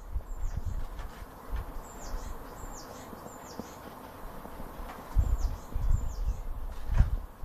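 A small bird giving short, high, down-slurred chirps, about seven in all, in little groups of two or three, with a few faint clicks between them. Low rumbling bursts come in the last couple of seconds.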